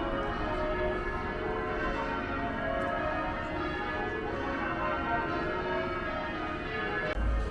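Church bells ringing changes, many bells sounding in overlapping succession. A low rumble comes in near the end.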